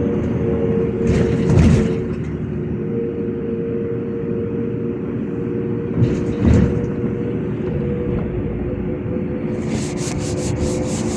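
LiAZ 5292 city bus under way, heard from inside: a steady drivetrain hum with a held whine, plus road noise. Two knocks come about a second and a half in and again about six seconds in, and a quick run of high rattling clicks follows near the end.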